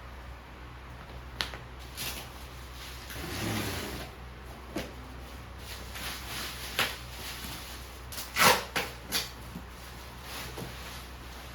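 Objects being handled and set down: a few light clicks, a short rustle, then a cluster of louder knocks about eight seconds in.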